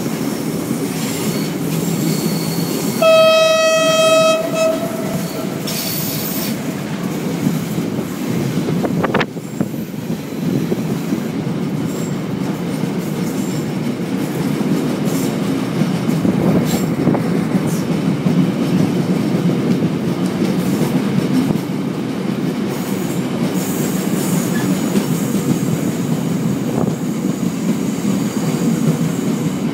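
The Lézard Rouge train running along the track with a steady rumble, sounding its horn in one blast about three seconds in that lasts a second or two and fades away.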